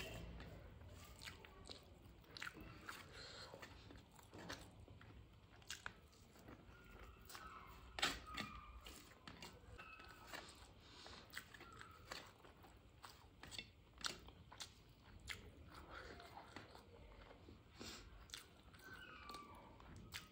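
Close-miked chewing and mouth sounds of someone eating a mouthful of rice: soft, wet clicks and smacks at an irregular pace, with one louder click about eight seconds in.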